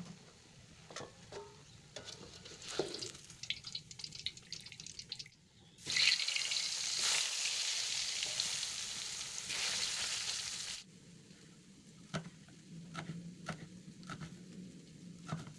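Tempeh frying in hot oil in a wok, with a metal spatula clinking and scraping against the pan. About six seconds in, a loud sizzle starts as a fresh piece of tempeh goes into the oil; it runs about five seconds and cuts off suddenly. It is followed by the sharp taps of a knife chopping chilies on a wooden cutting board.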